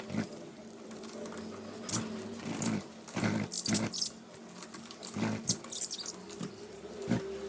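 Pet lovebirds eating, with beaks pecking and cracking seed in a run of irregular small clicks and taps, over a faint steady hum.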